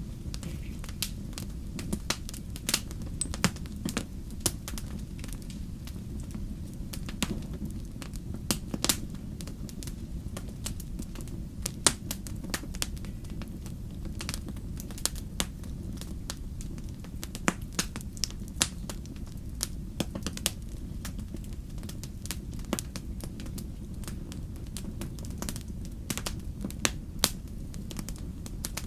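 Wood fire crackling and popping: frequent irregular sharp pops over a steady low rumble of flames.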